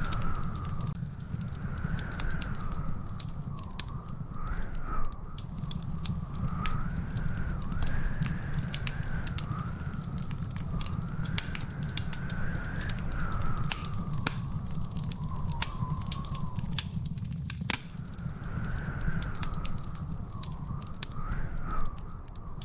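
Wood fire crackling in a fireplace, with frequent sharp irregular pops over a steady low rumble. A thin whistling tone slowly rises and falls in pitch throughout.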